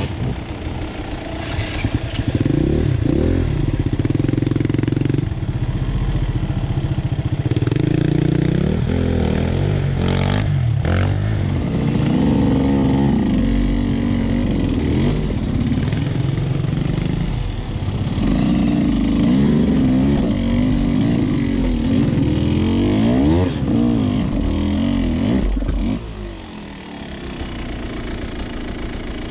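Beta 200 RR's two-stroke engine revving up and down in short bursts as the enduro bike crawls over rocks on a creek bed. Near the end the engine drops to a lower, quieter run.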